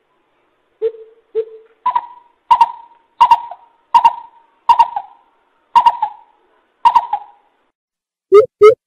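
Greater coucal (chim bìm bịp) hooting: two low hoots, then a run of about seven louder, higher hoots at an even pace, each trailing off. This is the call played as a lure to trap the birds.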